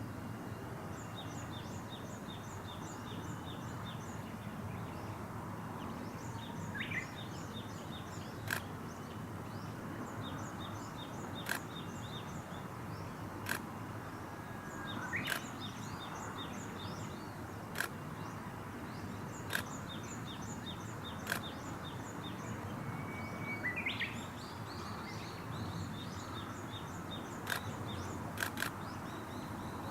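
Birds calling outdoors: rapid high twittering runs repeated throughout, a few short rising whistles, and scattered sharp clicks, over a steady low background rumble.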